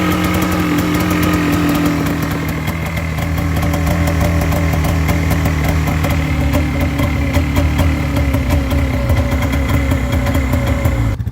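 Snowmobile engine running at a steady idle, its speed dipping slightly a couple of seconds in.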